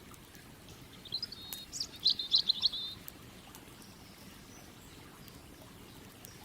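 A small songbird sings one short phrase of quick, high chirping notes, starting about a second in and lasting about two seconds. Underneath runs a steady low rush of river water, with an occasional sharp crackle from the campfire.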